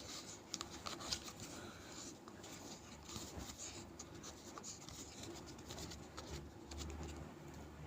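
Faint scratching and scattered light clicks of small handling noises.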